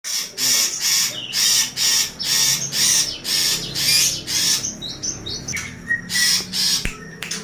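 Caged songbirds calling: a fast, even run of harsh, scratchy calls about three a second, breaking off near the end into a few short whistled notes.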